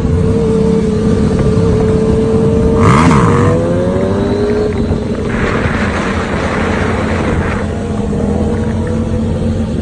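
Motor vehicle engines running steadily with shifting pitch. One passes close about three seconds in. A rushing hiss follows from about five to seven and a half seconds.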